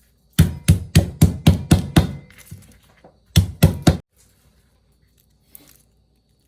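Kitchen knife chopping vegetables on a cutting board: a quick run of about seven chops, then after a pause three more.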